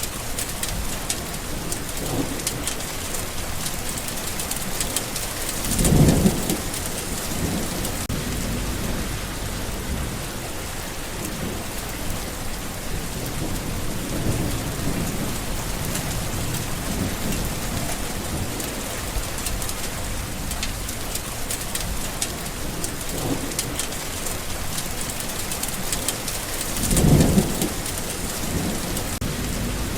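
Steady rain falling, with low rumbles of thunder rolling in and out. The two loudest rumbles come about six seconds in and near the end, with fainter ones between.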